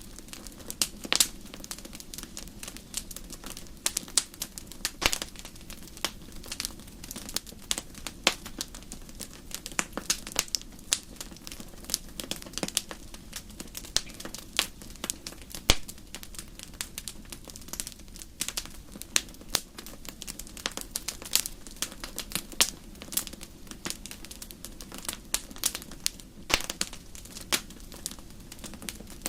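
Campfire crackling: a steady hiss with frequent irregular pops and snaps, one sharper snap a little past halfway.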